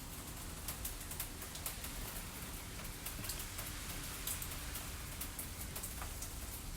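Fireplace-and-rainstorm ambience: a steady rain hiss over a low rumble, with small crackles scattered through it.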